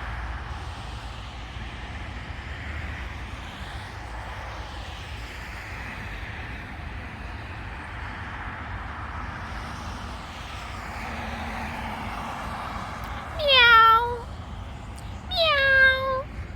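A cat meows twice near the end, two rising calls about two seconds apart, over a steady hum of road traffic.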